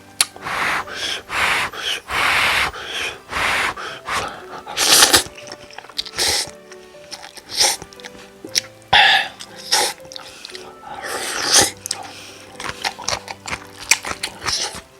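Close-miked slurping and chewing of instant cup noodles in irregular bursts, some drawn out over a second, over soft background music.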